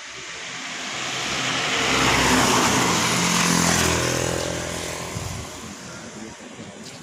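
A motor vehicle passing by, its engine and road noise growing louder to a peak a couple of seconds in, then fading away.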